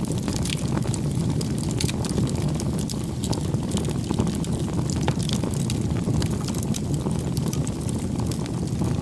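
Wood fire crackling: frequent, irregular sharp pops and snaps over a steady low rush of burning.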